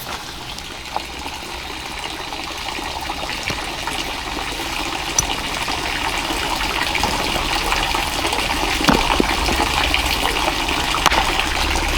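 Water running steadily, growing slowly louder, with a few light knocks.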